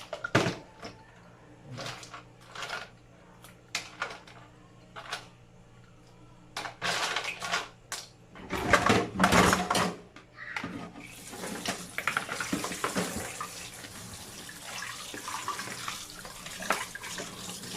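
Kitchen clicks and knocks, then a tap running steadily from about eleven seconds in, pouring water into the pot for the mussel soup's broth.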